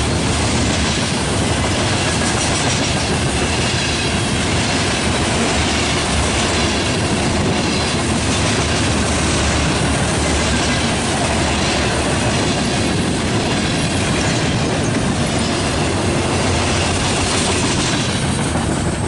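Freight train of covered hopper cars rolling past close by: a steady loud rumble and clatter of steel wheels on the rails. The last car passes near the end.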